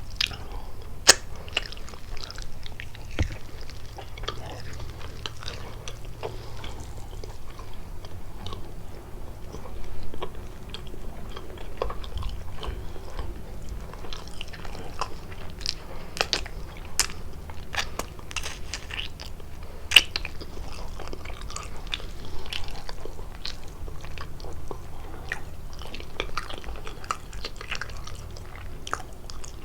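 Close-miked biting and chewing of kalaj pastry: wet chewing broken by many sharp crackly clicks and crunches, with two especially loud snaps about a second in and about twenty seconds in.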